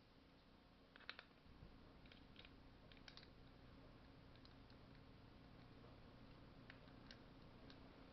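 Near silence with a few faint, scattered clicks and light taps of small metal engine parts being handled as a chainsaw piston is fitted, over a low steady hum.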